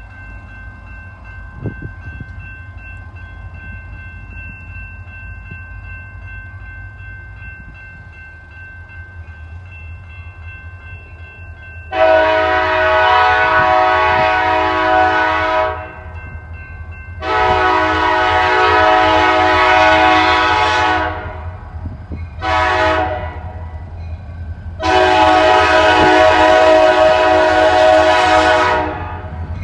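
Diesel locomotives rumble steadily on approach, then a multi-chime locomotive air horn sounds the grade-crossing signal: two long blasts, a short one, then a final long one. The horn is loud, with many tones sounding together.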